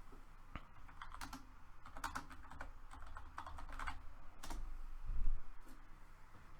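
Typing on a computer keyboard: irregular runs of clicking keystrokes, with a dull low thump about five seconds in.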